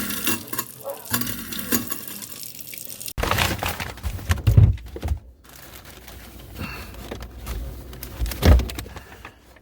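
Water running from a faucet into a kitchen sink, broken by an abrupt cut about three seconds in. There are two loud low thumps, one about halfway and one near the end.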